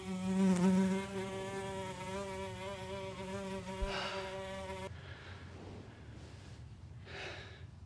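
A fly buzzing in flight: a steady, slightly wavering drone, loudest in the first second, that cuts off suddenly about five seconds in.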